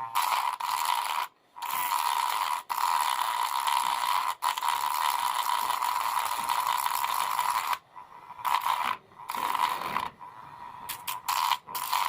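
Small DC motor of a homemade mini grinder running with a steady buzz. It cuts out briefly about a second in, then switches off and on several times in the last few seconds.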